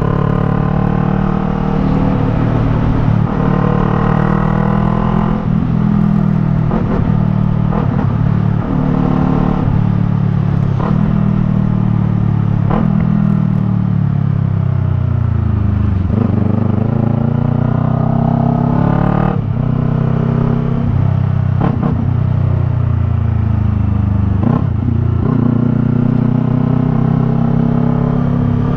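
Yamaha MT-03's parallel-twin engine breathing through a Jeskap R3 Cup aftermarket exhaust, pulling under acceleration. The pitch climbs through each gear and drops at each shift. About halfway through, the pitch falls steadily as the bike slows, then climbs again through the gears.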